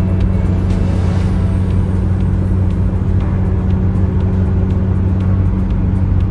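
A car driving at steady speed, its low engine and road drone running evenly.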